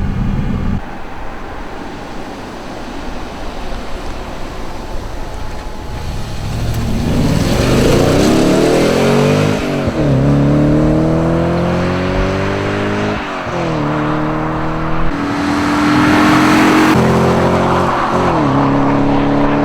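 Audi RS4's V8 accelerating hard through the gears: after a few seconds of steadier running, the engine note climbs, then drops sharply at each upshift, several times over.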